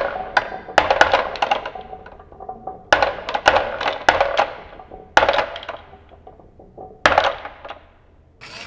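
A series of sharp clacks and rattles of small hard toy pieces knocking together, each ringing briefly, about seven loud ones at uneven intervals with lighter clatter between.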